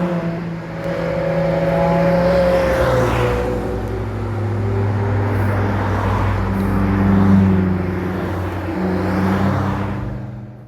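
Cars driving past with engines running. One engine's pitch drops as it goes by about two to three seconds in, and the sound cuts off abruptly at the end.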